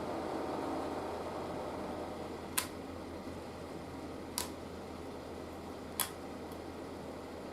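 Three short, sharp clicks, spaced about a second and a half to two seconds apart, over a steady background hum and hiss.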